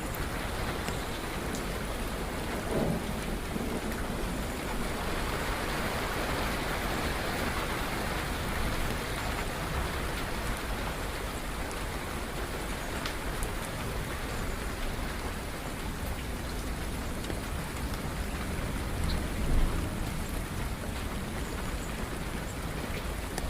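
Steady rain falling, with thunder rumbling. There are two brief louder moments, a few seconds in and again late on.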